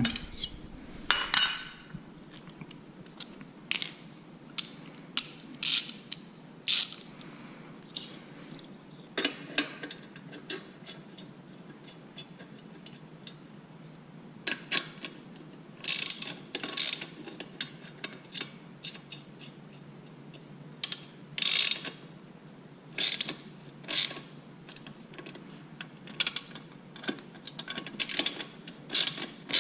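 Hand ratchet wrench clicking in short bursts of rapid clicks with pauses between, turning bolts to fasten a plate back on a motorcycle.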